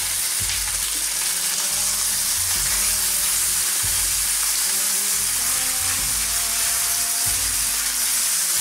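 Spelt semolina frying in oil in a pan, sizzling steadily as a wooden spatula stirs and turns it.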